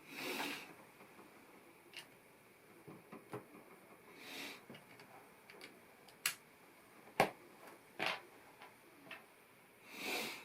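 LEGO plastic pieces being handled and pressed together: scattered sharp clicks, several seconds apart, with a few soft rustling swells between them.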